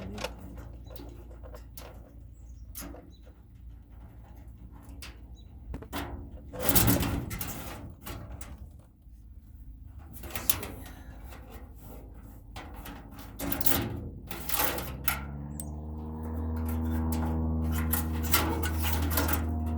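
Sheet-metal clanks, knocks and rattles from a furnace being taken apart, with a louder clatter about seven seconds in. From about fifteen seconds a steady low droning hum comes in and grows louder.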